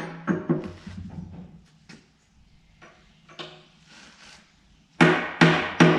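Hammer blows on steel bucket-tooth hardware, each with a short metallic ring. There are a few lighter strikes at the start and four hard ones near the end, about 0.4 s apart, over a steady low hum.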